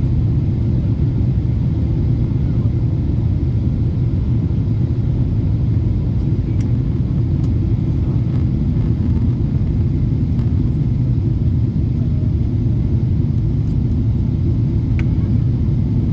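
Steady low rumble of a Boeing 777-300's cabin heard from an economy seat: engine and airflow noise at an even level, with a few faint ticks.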